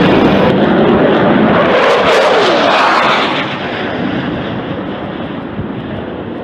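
Low-flying jet aircraft passing close overhead: a loud rushing roar whose pitch falls as it goes by about two to three seconds in, then fades away.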